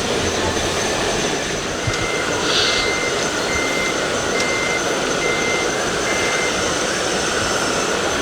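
Reversing beeper of a radio-controlled model truck's sound module: six evenly spaced beeps, starting about two seconds in, over a steady background din of the show hall.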